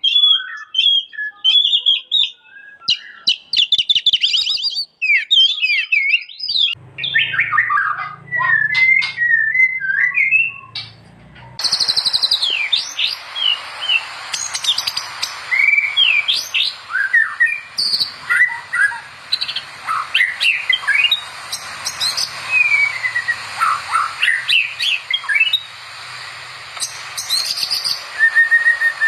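White-rumped shama (murai batu) singing fast, varied phrases of rising and falling whistles and chatters. The recording changes twice, and from about 11 seconds in a steady high hiss runs behind the song.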